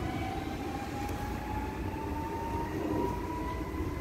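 Train running, a steady rumble under a whine that rises slowly in pitch.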